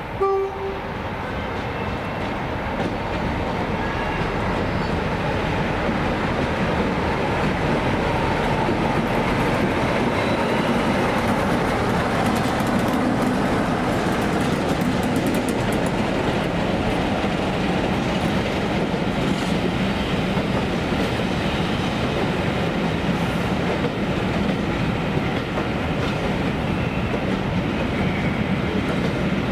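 A train running through, its wheels rattling over the rail joints, building up over the first few seconds and then running steadily on. A brief pitched toot sounds right at the start.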